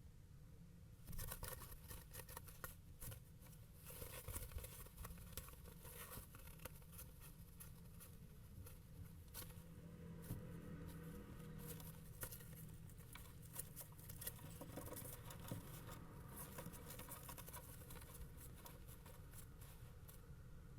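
Faint, irregular scratching, clicking and rustling inside a kestrel nest box, starting about a second in and going on, over a steady low hum from the camera microphone.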